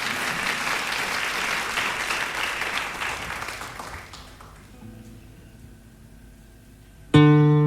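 Audience applause that dies away over the first four seconds, then a few faint held notes before a classical guitar strikes a loud chord about seven seconds in. The whole is heard off a late-1980s FM radio broadcast taped onto cassette.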